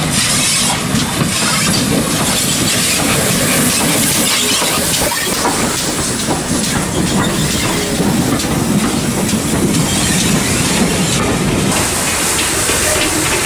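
Steam-hauled train running past at close range: a loud, steady rumble and clatter of wheels on the rails.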